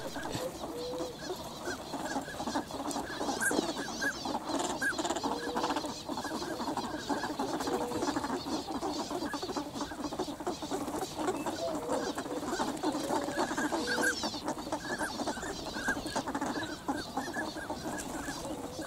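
A large flock of swans and ducks calling together: a dense, unbroken chorus of many overlapping short calls.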